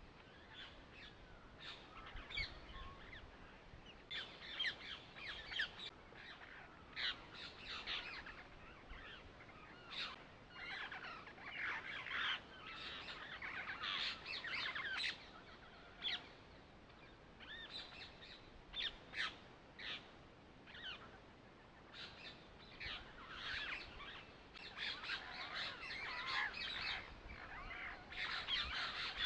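Birds chirping: many short, high chirps and quick whistled glides, coming in clusters with brief gaps.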